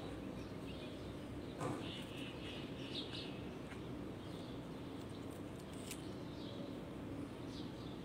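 Small birds chirping in short, high calls now and then over a steady low background rumble, with a brief click about two seconds in.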